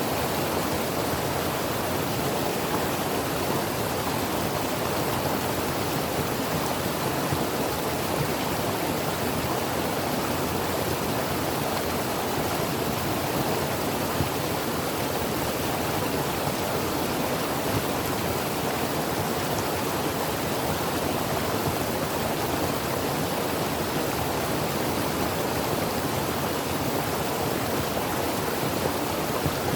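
Creek water flowing over rocks, a steady rushing babble with no breaks.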